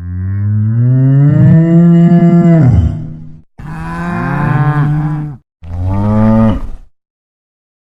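Cow mooing three times: a long moo that drops in pitch at its end, then two shorter moos.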